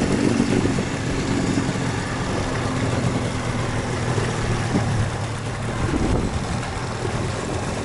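A motor engine running steadily, a low even hum.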